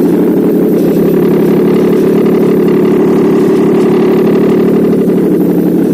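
Nissan VQ35DE 3.5-litre V6 engine running steadily at idle on an engine test stand, an even note with no revving.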